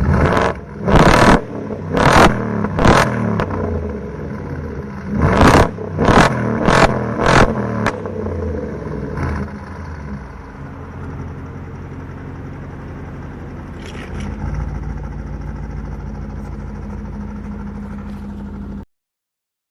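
BMW X5 engine and exhaust revved in a string of quick, sharp throttle blips, in two groups, each falling back as the revs drop. From about eight seconds in it settles to a steady idle with one small rise in the middle, until the sound cuts off suddenly near the end.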